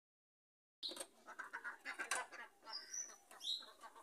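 Bird calls over a busy run of short clicks and taps, with a few high chirps and whistles near the end.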